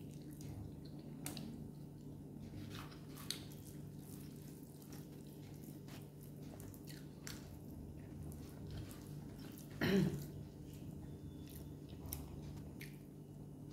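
Faint wet chewing and lip-smacking of someone eating rice and curry by hand, with small clicks and squishes as fingers mix the food on the plate. A low steady hum runs underneath, and one short louder sound comes about ten seconds in.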